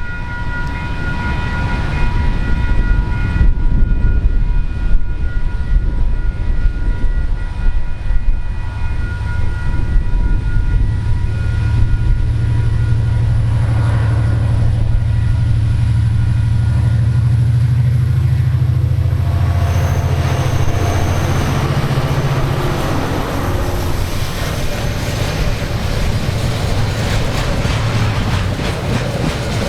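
KiwiRail diesel freight train passing: a deep engine rumble that swells through the middle, then a broad rush of wagon wheels rolling on the rails from about twenty seconds in.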